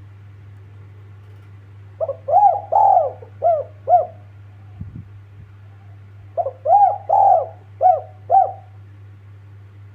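Spotted dove (tekukur) cooing: two phrases of four or five rounded coos each, a few seconds apart, over a steady low hum.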